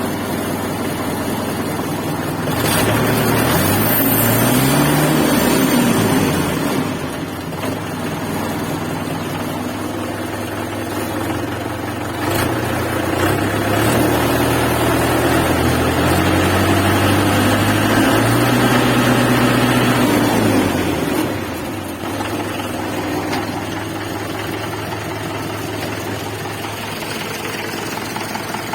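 Mahindra 575 DI tractor's four-cylinder diesel engine idling, revved up briefly about three seconds in, then held at higher revs for several seconds in the middle before dropping back to idle.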